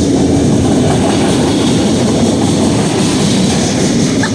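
CSX freight train passing close by, its cars making a steady, loud rumble of wheels on rail.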